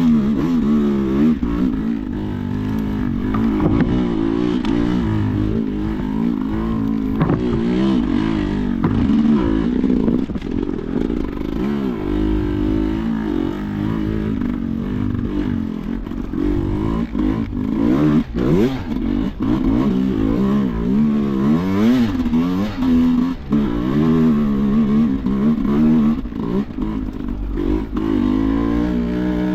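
Sherco enduro motorcycle engine being ridden off-road, its revs rising and falling every second or two under constant throttle work. A few knocks and clatters run through it.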